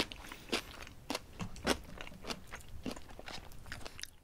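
A person chewing a mouthful of spicy pig's trotters (bul-jokbal) right at the microphone: irregular clicking chews, about two a second.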